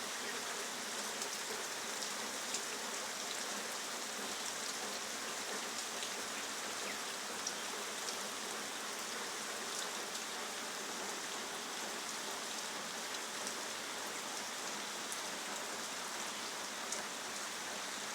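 Steady heavy rain falling, with scattered sharp drops standing out from the even hiss.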